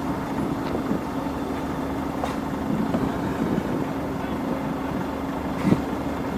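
Engine of heavy road-works machinery running steadily at an even pitch, with a short knock about five and a half seconds in.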